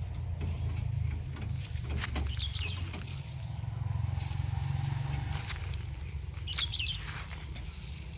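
Tractor engine running at a steady idle, with scattered clicks and two short, high chirps.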